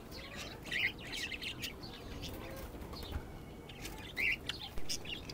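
Small cage birds giving short chirps: a cluster about a second in and another pair near the end.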